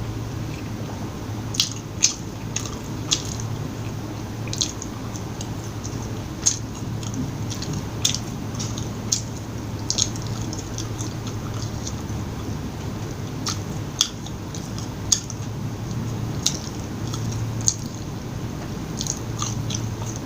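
Close-miked chewing and biting of fast food, with irregular wet, crisp clicks and crunches about once or twice a second over a steady low hum.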